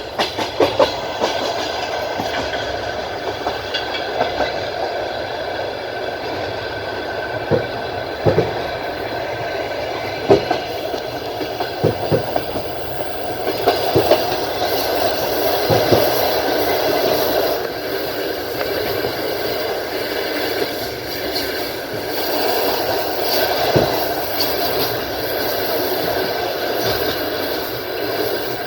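Passenger train running at speed, heard from inside a carriage: a steady rolling rumble of wheels on rails, broken by sharp clicks and clacks as the wheels pass over rail joints, more frequent in the first half.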